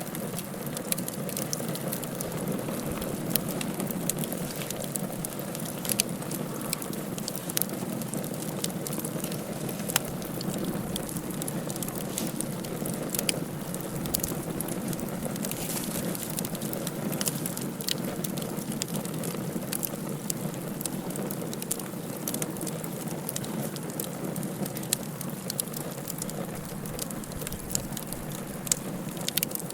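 Wood fire burning in a fireplace: a steady rushing hiss with frequent irregular crackles and sharp pops.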